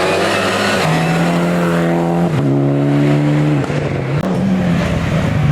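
Hill-climb race car engine running at high revs under acceleration, its pitch dipping briefly and picking up again at gear changes about two seconds in and again a second later.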